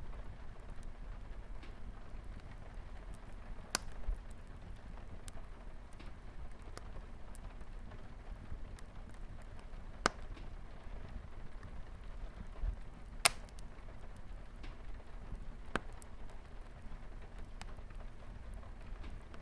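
Wood fire crackling with scattered sharp pops, the loudest about ten and thirteen seconds in, over a steady patter of light rain on a window.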